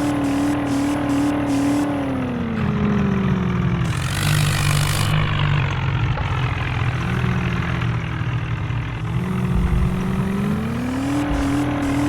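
A vehicle engine running hard at a steady pitch that sags over a couple of seconds, holds low with a burst of hissing noise about four seconds in, then climbs back to its earlier pitch near the end.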